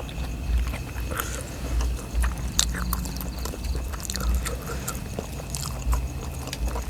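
Chewing and eating sounds, with repeated soft low thumps and scattered small clicks and smacks.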